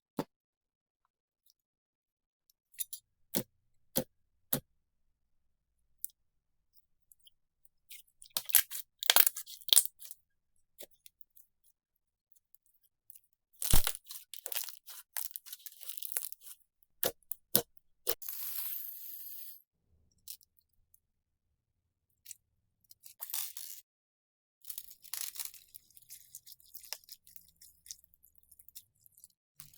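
Slime being pressed and worked by hand close to the microphone: a few sharp pops at first, then irregular bursts of crackling and crunching separated by quiet pauses.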